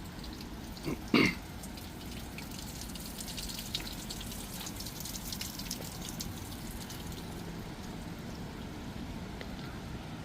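Rain falling, with a dense patter of drops ticking in the middle stretch. A short loud sound stands out about a second in.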